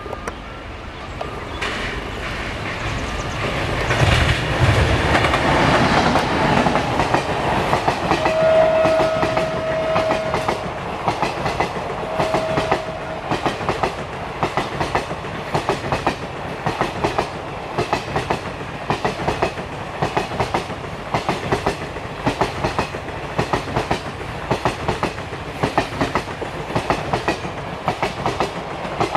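An electric-hauled passenger train passing at speed: the locomotive's run-by swells to a loud peak, with a steady high tone sounding twice. Then the coaches follow with an even clickety-clack of wheels over rail joints, about two clicks a second.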